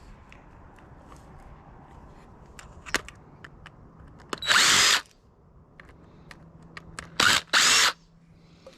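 Cordless drill-driver running in short bursts, backing out screws from sheet-metal panels: one burst about halfway through and two quick ones near the end, with light clicks of metal parts being handled between them.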